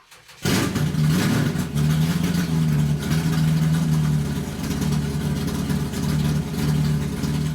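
A loud car engine running with a deep, steady drone; its level swells and dips every second or so. It cuts in abruptly about half a second in.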